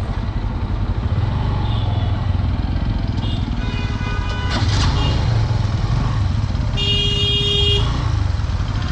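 Honda Dream 110 motorcycle's 110cc engine running with a steady low rumble in road traffic. A vehicle horn honks for about a second near the end, after a fainter horn-like tone around the middle.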